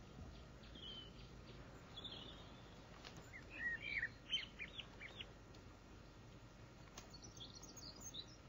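Small birds chirping faintly, with a quick run of short chirps about halfway through and a few scattered chirps before and near the end, over a low background hum.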